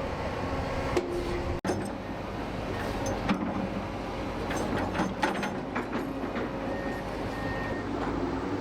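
Heavy construction machinery running, with a few sharp metallic clanks and a reversing alarm beeping near the end.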